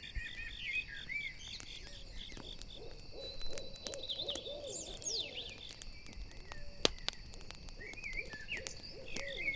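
An owl hooting in a run of low calls a couple of seconds in and again near the end, over campfire crackling with sharp pops, one louder pop about seven seconds in. Crickets chirp in steady pulses at the start.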